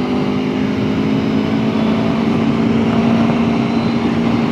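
Aprilia Tuono V4 1100 Factory's V4 engine running at a steady cruise, one even engine note with wind and road rush over it.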